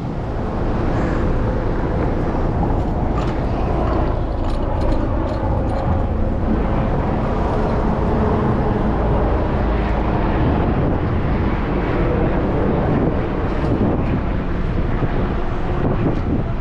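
Steady city street traffic noise heard from a moving bicycle, with a heavy low rumble and vehicles running nearby.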